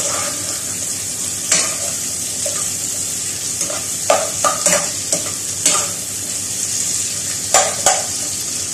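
Garlic, onion and ginger sizzling steadily in hot oil in a pot, with a metal spoon scraping and knocking against the pot now and then as they are stirred.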